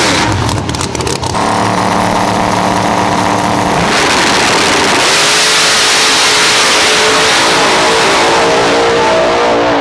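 Race car engine revving loudly: a rapid crackle of pops in the first second, then the engine holds a steady high rpm with a few shifts in pitch.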